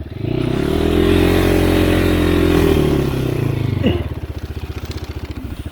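Enduro dirt bike engine revved hard for about three seconds, then dropping back to a pulsing idle. The bike is stuck in snow and the rider is trying to power it out.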